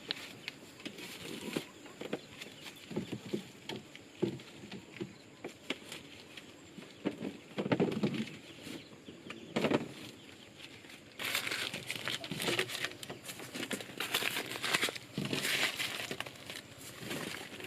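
Irregular rustling and crinkling with small clicks and knocks, louder in a few bursts about eight and ten seconds in and again from about eleven seconds on.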